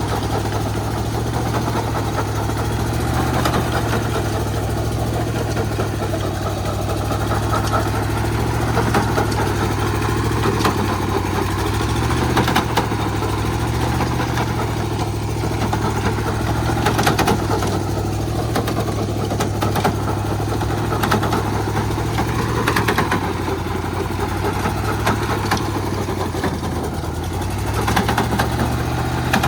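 Small diesel engine of a walk-behind cultivator running steadily, its speed wavering a little, with occasional sharp clatters.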